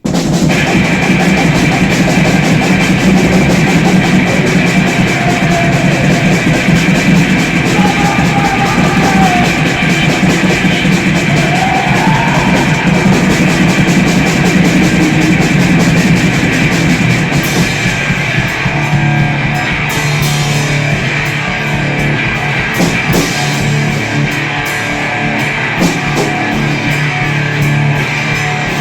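Grindcore played by a guitar-and-drums duo: heavily distorted electric guitar and a drum kit, loud and dense. It kicks in abruptly at the start. About two-thirds of the way through it changes to a choppier riff with distinct drum hits.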